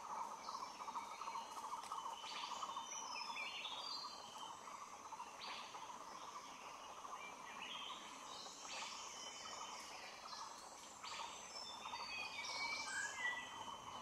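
Forest birds chirping and calling in short, scattered phrases over a steady, even background drone.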